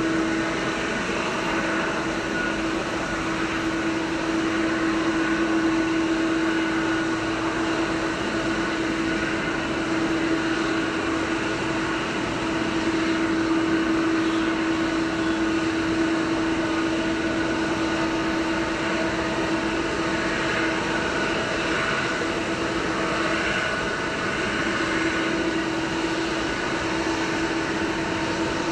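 Jet airliner engines running steadily: a continuous hum and a fainter high whine over a constant wash of engine noise, with no build-up or fade.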